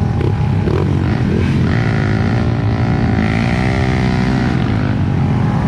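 Off-road trail motorcycle engine running under throttle, its pitch rising and falling as the rider works the throttle over rough ground.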